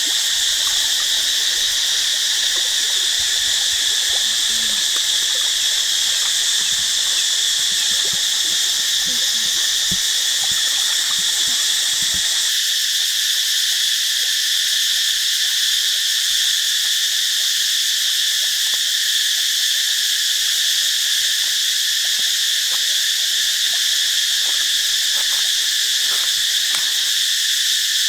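Steady, unbroken chorus of insects, a high shrill drone, with faint small knocks underneath during the first half.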